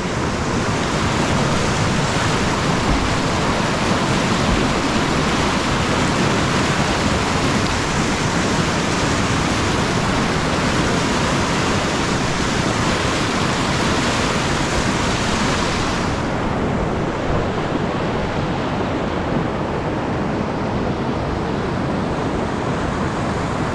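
Whitewater rapids rushing steadily, a loud even wash of creek water. About sixteen seconds in, the highest hiss drops away while the rest of the rush goes on.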